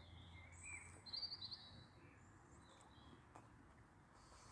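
Near silence, with a few faint bird chirps and a short trill about a second in.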